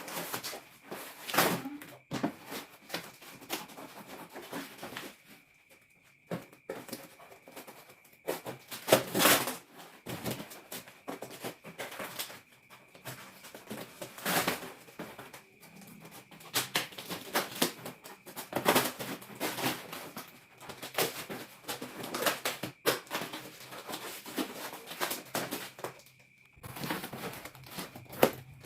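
Packaging being handled and torn open: irregular rustling, crinkling and tapping with occasional sharper knocks, over a faint steady high tone.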